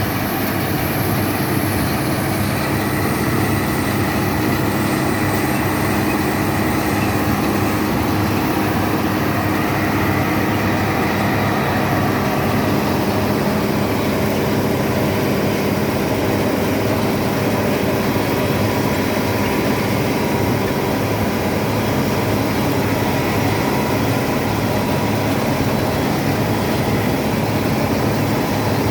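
Bizon Rekord Z058/1 combine harvester running steadily, its 6CT107 six-cylinder diesel engine working at constant speed while the harvester is in action in a rye crop.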